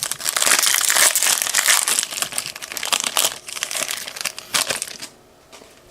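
Foil wrapper of a Topps Chrome trading-card pack crinkling as it is torn open and handled: dense crackling for the first two seconds or so, then scattered crackles that stop about five seconds in.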